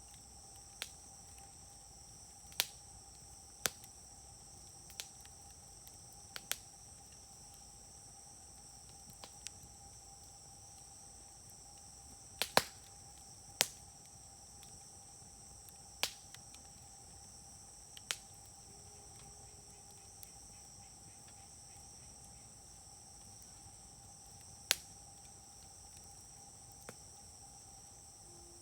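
Wood fire popping and snapping: about a dozen sharp pops at irregular intervals, the loudest a double pop about halfway through. A steady chirring of insects runs underneath.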